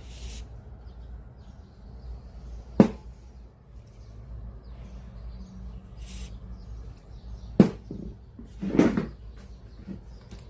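Two sharp knocks, one about three seconds in and one near eight seconds, then a short rattle, over a low steady hum.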